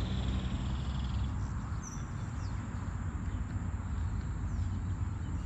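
Birds calling: a rattling trill that stops about a second in, then a few brief chirps, over a steady low rumble and a thin, constant high tone.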